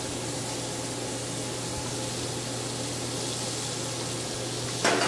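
Steady sizzling hiss of peppers, onion and garlic frying in butter and olive oil in a skillet, over a low steady hum, with a brief louder sound near the end.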